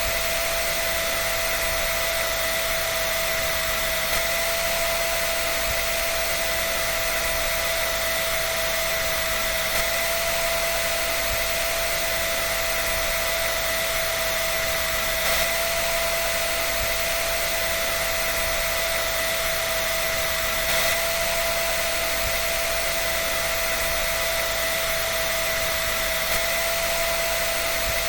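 Hair dryer running steadily: an even rush of blown air with a constant whine over it, unchanging throughout.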